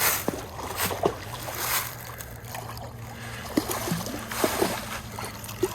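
Scattered light splashes and knocks as a hooked sucker is brought in at the river's edge.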